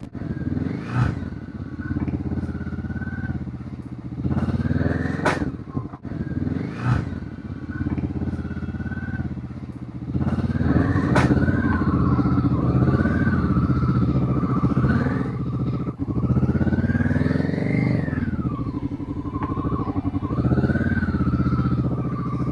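Motorcycle engine on the move, its pitch climbing as it accelerates and dropping sharply at each gear change, several times over.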